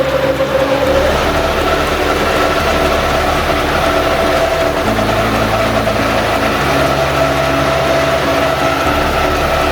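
Engine of a HOGICO Paddy Hauler 3-in-1 walking tractor running steadily under load while tilling hard, dry soil.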